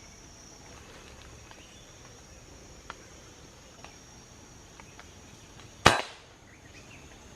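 A single sharp crack of an air rifle shot at a bird, about six seconds in, with a short tail after it. A few faint ticks come before it.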